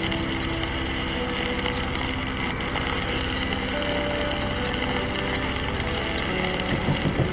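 Steady, unbroken noise of a tool working on the truck's metal, with no pauses.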